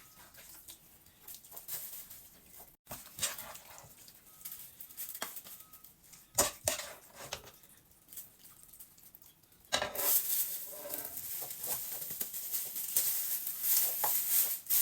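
A spoon knocking and scraping in a pot of thick soup as it is stirred and scooped, with scattered light clicks. About ten seconds in a louder, steady rustling hiss starts.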